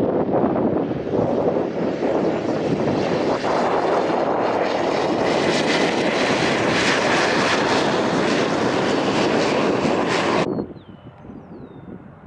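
Airplane engine at close range, loud and steady, growing harsher and brighter partway through as the aircraft comes nearer. It cuts off suddenly near the end, leaving quiet outdoor background.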